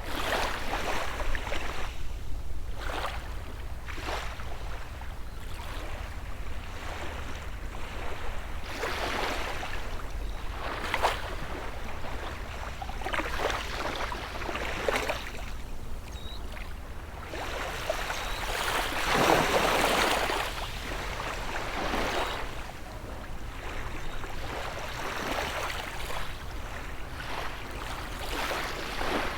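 Ocean waves breaking and washing up the beach in a run of short surges every second or two, the biggest about two-thirds of the way through.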